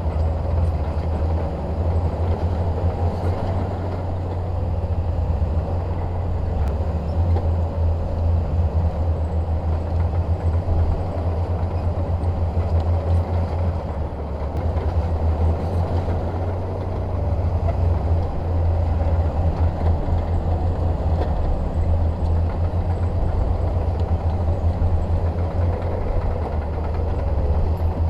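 Heavy diesel engine of a bulldozer running steadily under load, a deep even drone with a few faint clicks.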